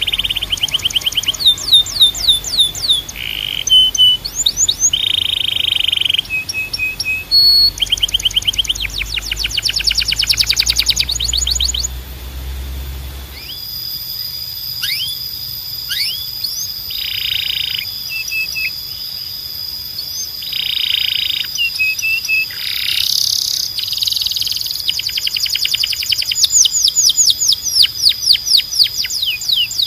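Domestic canary singing: fast trills of rapidly repeated notes alternating with buzzy rolls and short whistled notes. A low hum underneath stops about halfway through.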